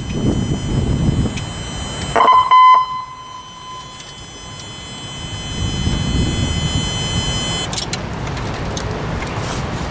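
Car in motion with a steady low road rumble, a short loud beep about two seconds in, and a thin high whine that cuts off suddenly near the end.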